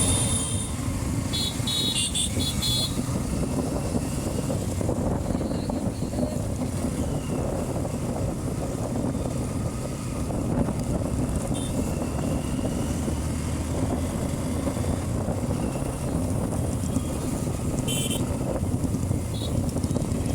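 Hero Xtreme 125R's single-cylinder engine running steadily while riding, with wind and road noise. A few short high-pitched beeps come about two seconds in and again near the end.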